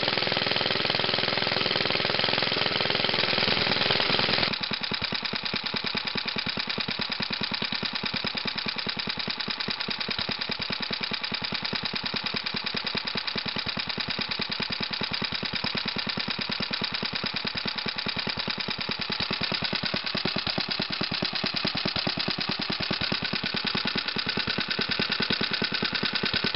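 Old Briggs & Stratton Model 6-S single-cylinder gas engine running steadily with a fast, even popping beat. About four seconds in the sound turns abruptly quieter and thinner, then runs on evenly.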